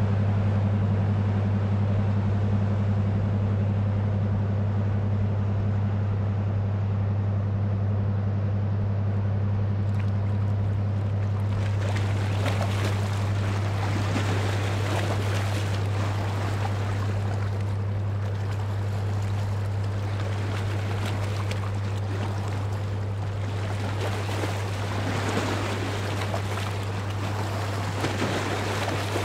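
A passing ship's engine as a steady low drone that slowly fades. About a third of the way in, its wake reaches the breakwater and water starts washing and splashing against it in swells.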